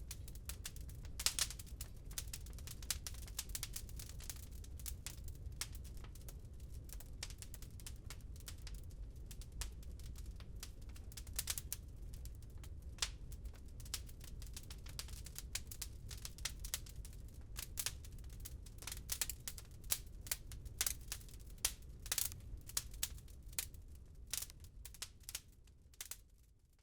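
Wood fire crackling in a fireplace: irregular sharp pops and snaps, some louder, over a steady low rumble. The sound fades out right at the end.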